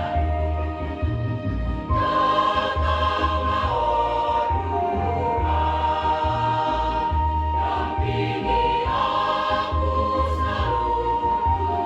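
Church choir singing in long held chords over a low bass line that changes note about once a second.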